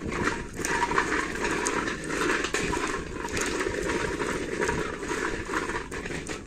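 Chestnuts roasting on a sac griddle over a wood fire: a steady hiss and sizzle with scattered sharp crackles.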